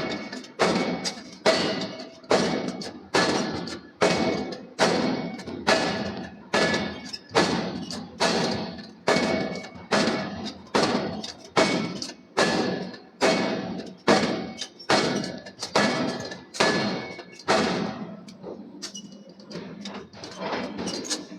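Forging hammer striking steel in a steady rhythm, about three blows every two seconds, each with a short metallic ring. The heavy blows stop about 18 seconds in, leaving lighter, quieter knocks.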